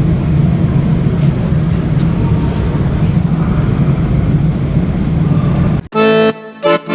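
Steady, loud low rumbling noise that cuts off abruptly near the end, where accordion music begins.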